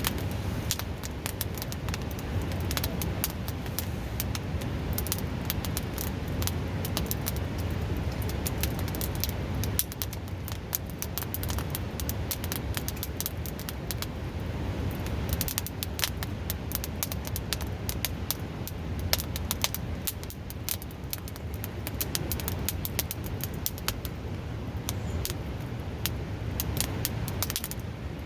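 Wood campfire crackling, with frequent sharp irregular pops, over the steady rush of a river.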